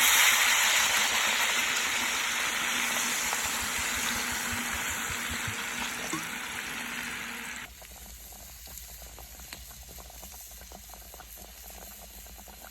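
Oxtail sizzling in a hot pot on a wood-burning stove, loud at first and slowly fading. About eight seconds in it drops suddenly to a quieter sizzle with fine crackles.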